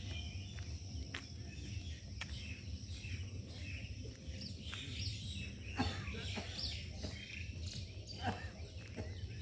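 Several birds chirping and calling in short, scattered notes, with a couple of louder quick calls about six and eight seconds in, over a low steady rumble.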